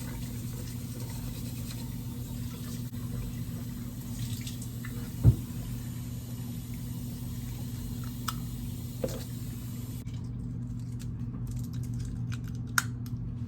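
Bathroom sink tap running, shut off about ten seconds in, with a loud knock about halfway through and a few light clicks after the water stops. A steady low hum runs underneath.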